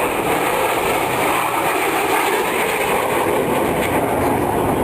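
Steady, loud engine noise from the twin turbofan engines of a flying A-10 Thunderbolt II (Warthog).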